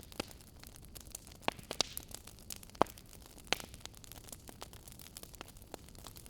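Wood fire in a fireplace crackling: irregular sharp pops and snaps over a soft hiss, the loudest pops a little under three seconds in and again about half a second later.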